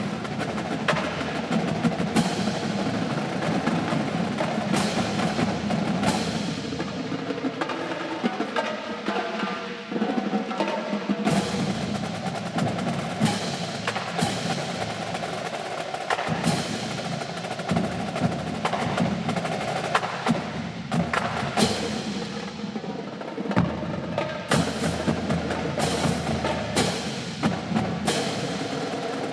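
Marching drum line playing a battle cadence: continuous snare drumming and rolls over bass drums, punctuated by sharp full-ensemble accents, several of them close together near the end.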